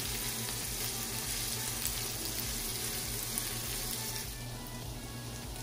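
Diced onions sizzling steadily in olive oil in a cast-iron skillet, stirred with a silicone spatula. The sizzle thins slightly about two-thirds of the way through.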